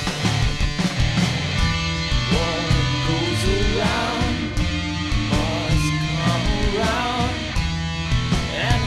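Rock band playing an instrumental break: drums, bass and guitar, with a lead line that bends and wavers in pitch from about two seconds in.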